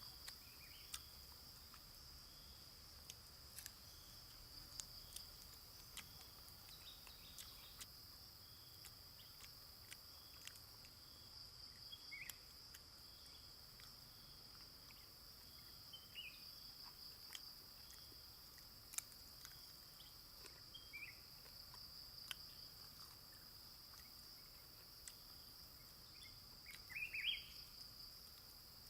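Faint forest ambience: a steady, high, pulsing insect chirr, with a few short bird chirps and occasional sharp light clicks. The loudest moment is a brief cluster of chirps near the end.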